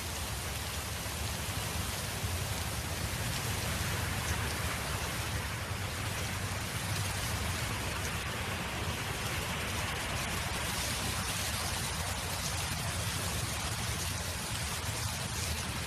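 Wind blowing across an open field: a steady rushing noise with a low rumble of wind on the microphone underneath.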